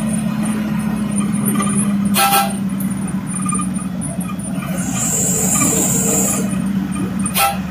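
Truck engine running steadily, with a high hiss lasting about a second and a half in the middle and two short, sharp sounds, one about two seconds in and one near the end.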